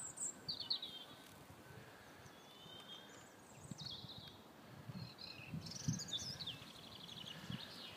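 Small birds chirping and calling, a string of short sliding chirps with a rapid trill near the end. A few low muffled bumps come through, the loudest about six seconds in.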